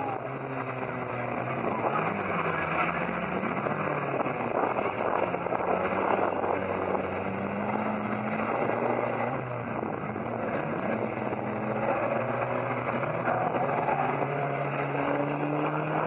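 Several 2-litre banger-racing cars' engines revving together, their pitches rising and falling independently as the pack races around the track.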